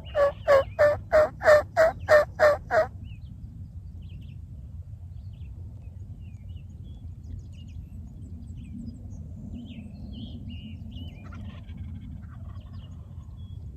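A run of about a dozen loud, raspy turkey yelps, roughly three a second, each note dropping in pitch, ending about three seconds in. Afterwards faint songbird chirps over a steady low rumble.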